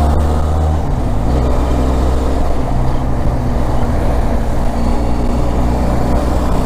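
Benelli TRK 502 parallel-twin motorcycle engine running steadily at highway cruising, heard from the rider's position, with a steady low hum and road noise that shift slightly about a second in.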